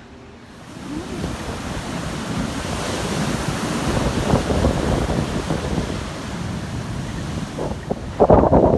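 Sea surf washing on a beach, with wind blowing on the microphone. The noise swells after about a second, and a louder rush comes near the end.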